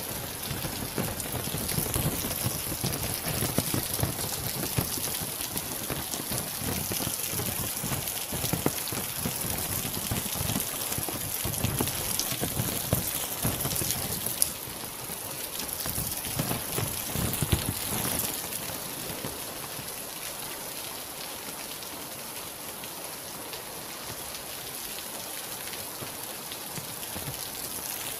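Real rain falling steadily, a dense patter of individual drops over a continuous hiss. It is heavier for the first two-thirds, then eases and gets a little quieter and lighter.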